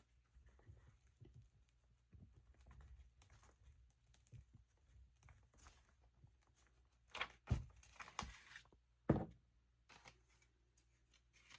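Soft rustling and rubbing of paper as a torn journal page is glued and pressed down by hand, with a few louder handling noises about seven and nine seconds in.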